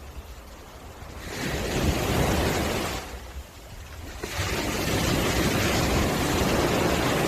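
Sea waves washing onto a beach: two surges of surf, the first rising about a second in and easing off around three seconds, the second rising just after four seconds and running on.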